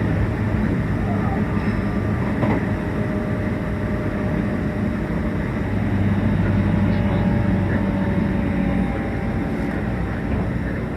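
Meitetsu 1800 series electric train running at speed, heard from inside the car: a steady rumble of wheels on rail with a low hum and a few faint steady tones from the running gear.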